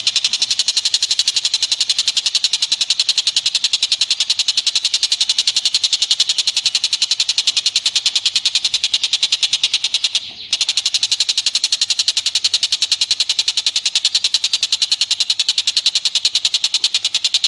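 A fast, evenly repeated high-pitched chattering animal call from a bird-song training recording, running without pause except for a brief break about ten seconds in.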